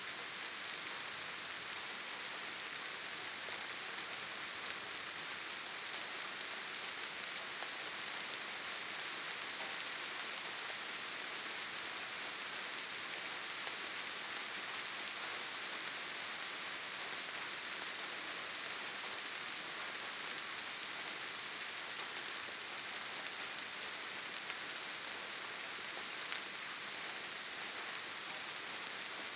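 Steady rain falling, an even hiss that does not change, with a few faint drop ticks.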